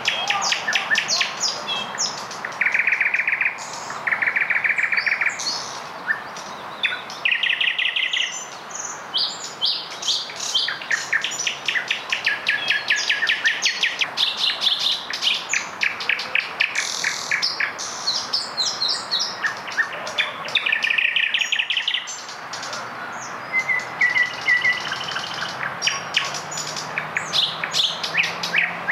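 Several nightingales singing at once, their songs overlapping: phrases of fast repeated notes and rattling trills, broken by short pauses and whistles.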